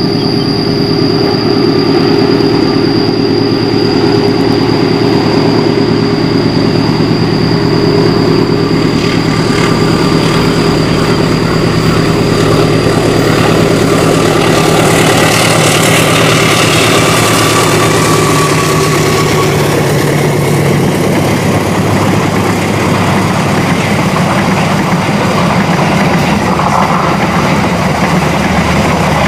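Diesel locomotive running steadily under load as it hauls a passenger train uphill. Its engine hum is mixed with wheel-on-rail noise that swells about halfway through as the train rounds a curve.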